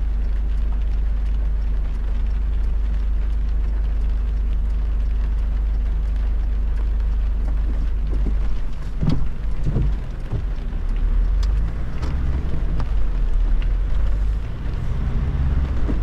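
Car driving on a rain-soaked road: a steady low rumble of road and tyre noise mixed with the hiss of rain. A few sharp taps stand out in the second half.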